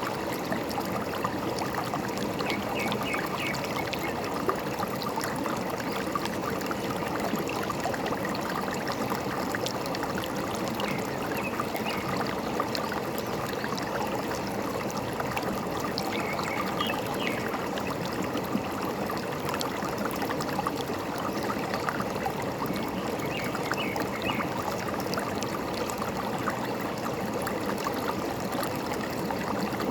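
Forest stream flowing steadily over rocks, trickling and gurgling. Short runs of quick high bird chirps come through a few times.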